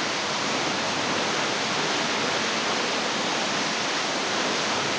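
Small waterfall splashing into a rock pool, a steady rush of falling water.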